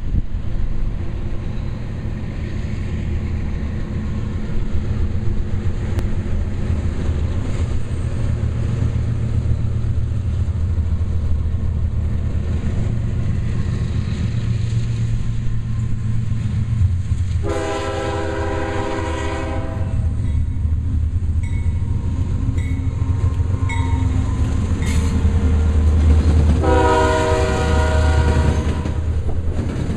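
Diesel locomotives of a CSX container stack train, a GE ES40DC leading with an EMD SD70MAC, drawing near with a steady low engine drone. The lead unit's chime horn sounds two long blasts, about 17 seconds in and again about 27 seconds in. Near the end the double-stack cars pass close, their wheels clicking over the rail joints.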